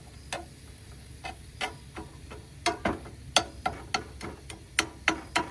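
Irregular sharp crackles and pops, about fifteen over five seconds and thickest in the middle, over a faint low steady hum, from the campfire cooking setup (coals or hot skillet).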